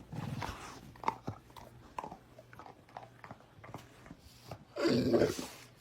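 A dog chewing and crunching, with scattered short clicks, then a louder sound about five seconds in.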